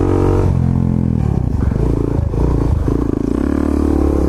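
Single-cylinder motorcycle engine running under load as the bike rides off, its pitch rising and dropping several times as the throttle and gears change.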